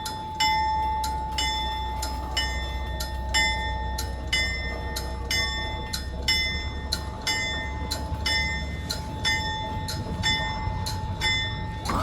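Locomotive bell ringing steadily, a little over two strokes a second, over a low engine rumble.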